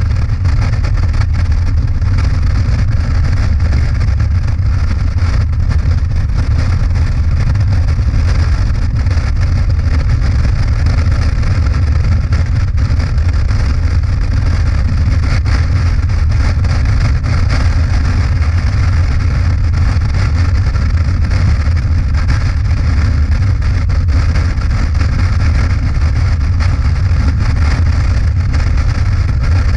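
Motorcycle riding at a steady speed: an even low engine drone with road and wind noise, no change in pace.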